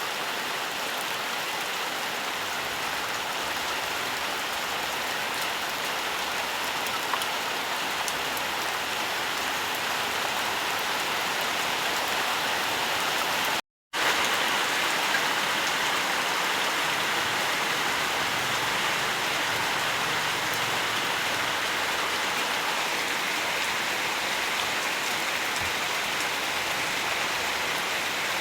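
Steady, even rainfall. The sound cuts out completely for a split second about halfway through.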